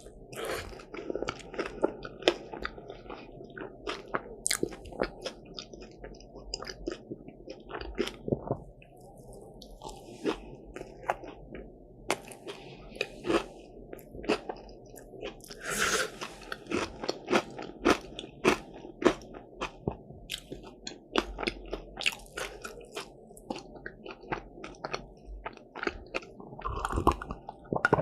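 Close-up eating sounds of crisp croffles (croissant-dough waffles): crunching bites and chewing, with many short, irregular crunches.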